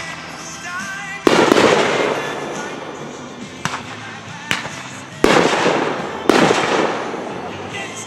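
Fireworks exploding: three loud bursts, about a second in and twice more around five and six seconds, each trailing off in a long crackle, with a few smaller sharp pops between them.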